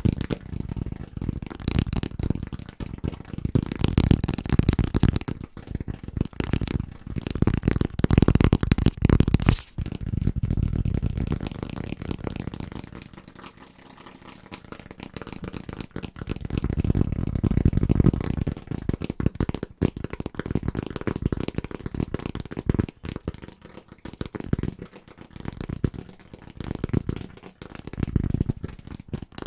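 Fingers tapping fast and hard on household objects, a dense rapid patter of clicks and knocks. It eases off briefly about halfway through, then picks up again.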